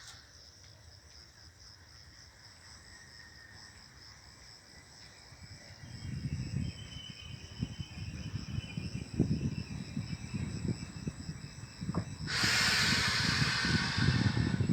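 Insects trilling steadily, then the low rumble of an approaching train builds from about six seconds in. Near the end a regional train hauled by an E464 electric locomotive reaches the microphone with a sudden loud rushing hiss.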